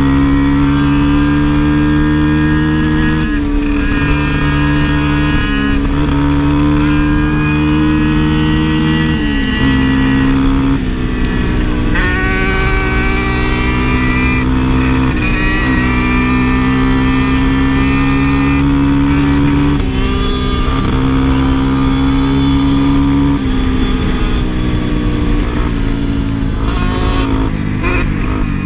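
A vehicle engine running hard and pulling through the gears: its pitch climbs slowly, then drops sharply at each change, several times over.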